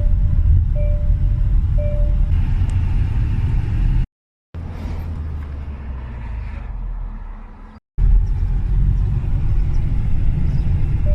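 Storm noise: a heavy, choppy low rumble across three short clips, with a few short electronic beeps in the first two seconds.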